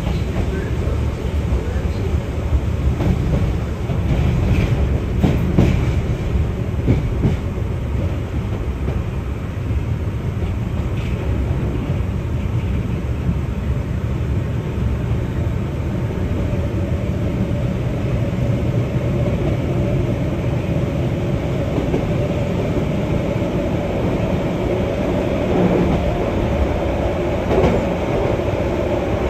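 Keihan 600-series electric train running along the track, heard from the cab. It gives a steady rumble with scattered clacks over rail joints, and a humming tone grows stronger in the second half.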